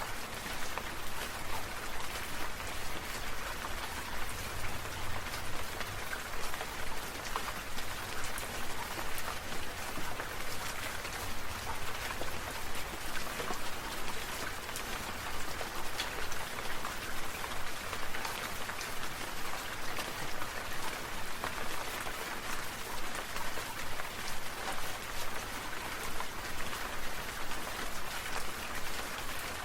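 Falling water drops pattering steadily on a surface, swelling in regular pulses about one and a half times a second.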